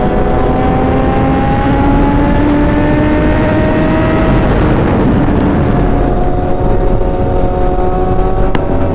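BMW S1000RR inline-four sportbike with an SC Project exhaust running hard at road speed, heavy wind noise on the microphone. The engine note climbs slowly for about four seconds, drops back around halfway and then holds steadier, with a sharp click near the end.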